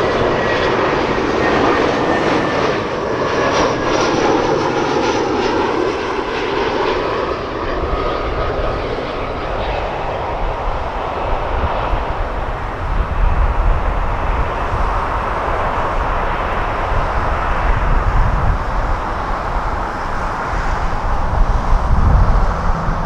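Jet airliner engine noise with a whine that falls in pitch over the first several seconds, then a deep rumble that grows stronger in the second half.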